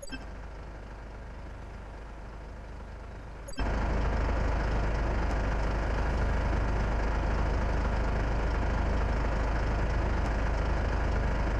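Truck engine running steadily with a heavy low rumble, becoming suddenly much louder about three and a half seconds in.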